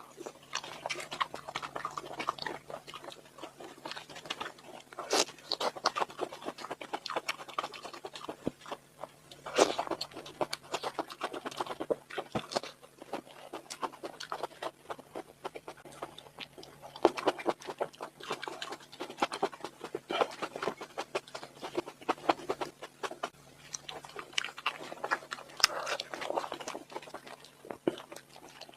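Close-miked eating sounds: chewing and biting with many irregular sharp clicks and wet mouth noises, louder bursts coming every few seconds.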